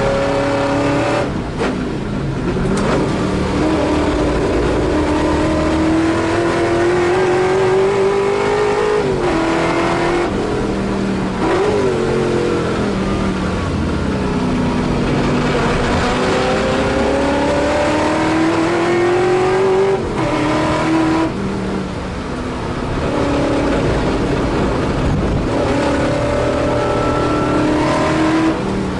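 Holden Torana A9X racing car's V8 at full throttle, heard from inside the car. The revs climb steadily and then drop sharply several times as it changes gear and slows for corners.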